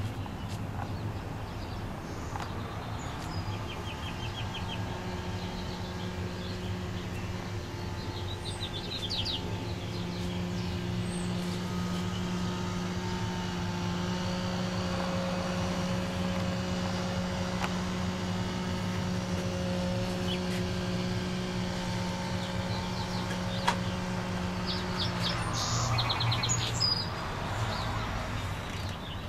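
Small birds chirping a few times over a steady motor hum that comes in a few seconds in and stops near the end.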